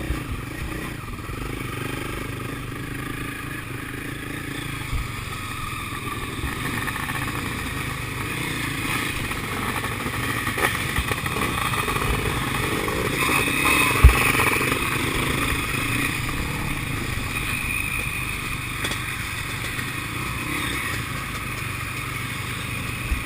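Sidecar motocross outfits racing around the track, engines revving, swelling louder about halfway through as they pass and then fading back. A single sharp knock about fourteen seconds in.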